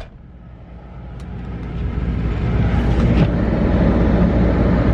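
Car rumble heard from inside the cabin: low and steady, swelling over the first couple of seconds, then holding.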